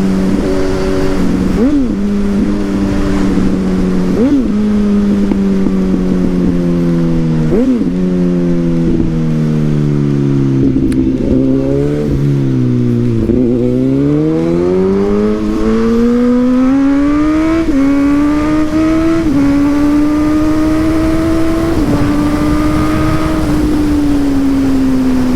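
Suzuki GSX-S1000's inline-four engine through a Yoshimura aftermarket exhaust under way. For the first dozen seconds or so the revs slowly fall, with three short rev spikes as the rider downshifts. After that the engine pulls up through the gears, its pitch rising and then dropping in steps at each upshift.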